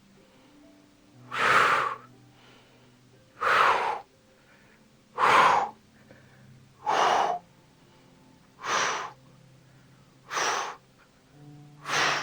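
A man's forceful breaths, a sharp exhale with each repetition of a side-plank knee-raise exercise, about seven in a steady rhythm roughly every second and a half to two seconds.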